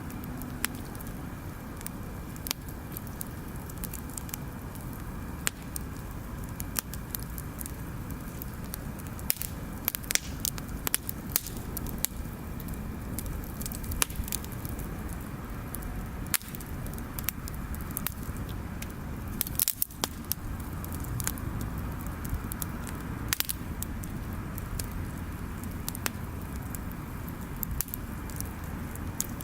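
Bonfire crackling, with irregular sharp pops and snaps over a steady low rumble.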